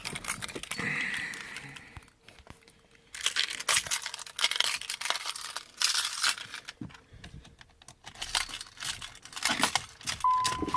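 Handling noises: rustling, scattered clicks and a jingle of keys. A steady electronic beep starts near the end.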